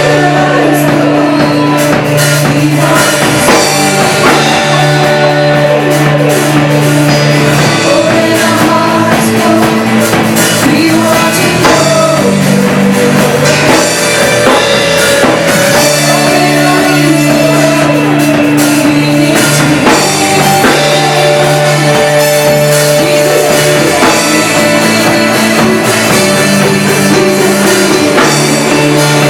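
A live worship band playing at full volume: drum kit, guitar and held chords in a rock style, going steadily throughout.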